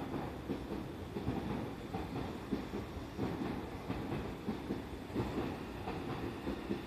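A train running through the station, a steady low rumble of wheels on rail with frequent irregular knocks.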